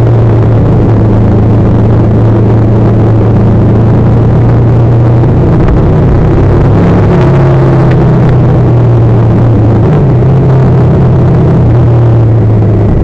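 Motorcycle engine running steadily under way, picked up loud by an onboard camera, its note shifting down and back up a few times as the throttle changes.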